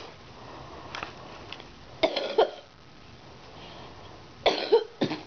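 A person coughing in two short bouts, about two seconds in and again near the end.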